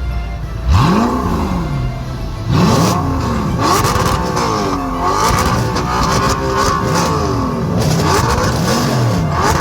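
Car engine revved over and over, its pitch rising and falling about once a second, starting sharply about a second in.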